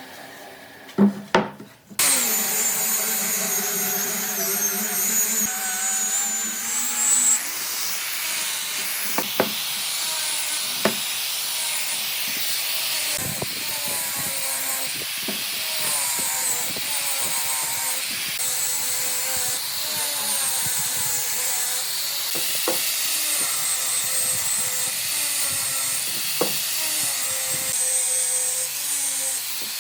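An electric power tool running steadily as it works wood, starting about two seconds in after a couple of sharp knocks, with a whine and occasional clicks over the noise.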